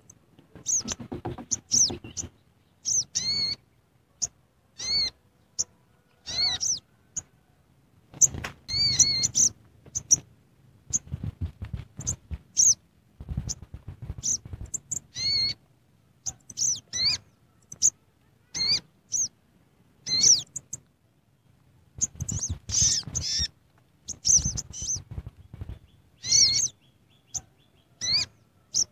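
Bird chirping: short, high, arched call notes repeated at irregular intervals, with low dull bumps and rustling mixed in.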